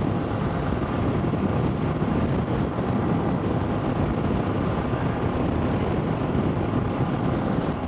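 Steady wind noise buffeting the microphone over the running of a motorcycle at cruising speed, from a strong crosswind.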